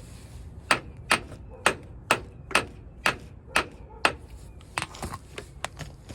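Hammer blows: eight firm strikes about two a second, then a run of lighter, quicker taps near the end.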